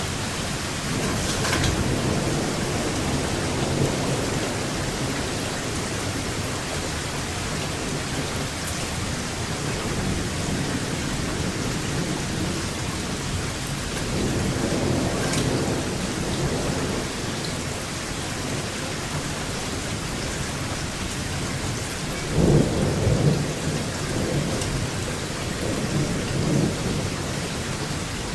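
Steady rain falling during a thunderstorm, with thunder rumbling low several times. The loudest rumble comes about three quarters of the way through.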